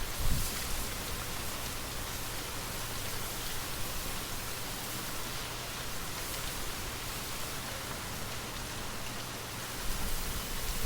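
Steady rain falling as an even hiss, with a brief low rumble just after the start and again near the end.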